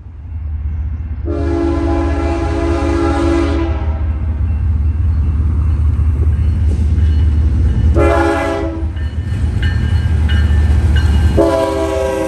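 Diesel freight locomotive passing with a heavy engine rumble, sounding its multi-chime air horn: a long blast, a short blast about six seconds later, then another long blast starting near the end.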